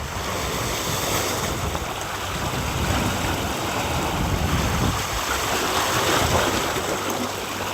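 Sea waves washing against a rocky shore, a steady rush with some wind on the microphone.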